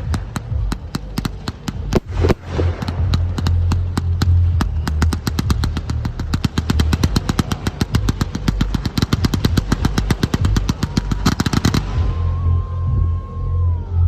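Fireworks going off in a rapid barrage of sharp bangs, several to the second and growing denser, over a deep rumble. The bangs stop about twelve seconds in, and a steady whistle runs on for a few seconds after them.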